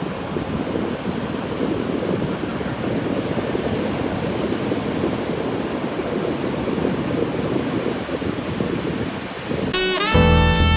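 Steady rush of ocean surf with wind on the microphone. Near the end, music with drums and saxophone cuts in suddenly and is louder.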